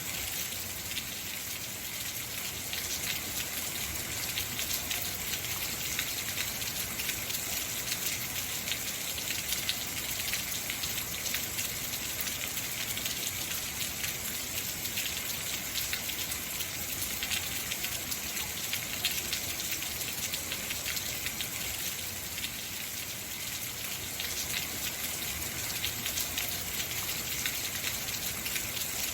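Heavy rain falling: a steady, even hiss made of countless small drop impacts, with no let-up.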